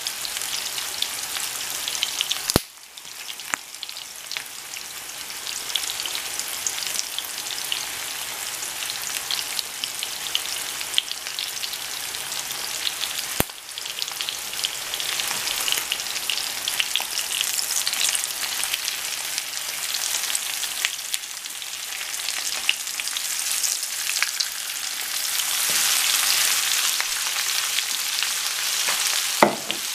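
Chicken pieces sizzling and crackling as they fry in oil in a non-stick frying pan, with a few sharp clicks. The sizzle grows louder near the end.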